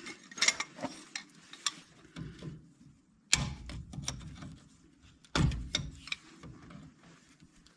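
Metal hand tools and parts clinking and clunking as they are handled: a run of light clinks in the first couple of seconds, then two heavier clunks about three and a half and five and a half seconds in.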